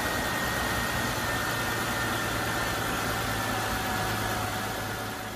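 Ford Freestyle engine idling steadily after its starter and solenoid have been repaired, showing the car now starts and runs. It fades out near the end.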